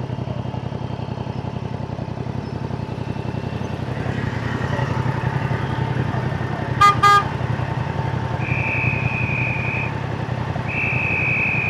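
Yamaha Tracer 7's parallel-twin engine running steadily under way, heard over road and wind noise. A vehicle horn gives two short toots about seven seconds in, and two longer, steady high-pitched tones follow near the end.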